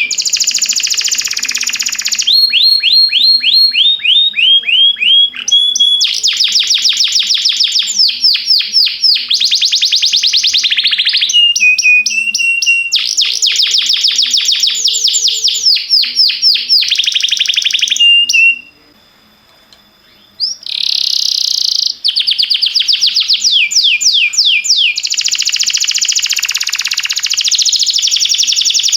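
Domestic canary singing a long training song of fast repeated trills and rolls, each phrase a rapid run of the same sweeping note before switching to a new one. The song breaks off for about two seconds about two-thirds of the way through, then resumes.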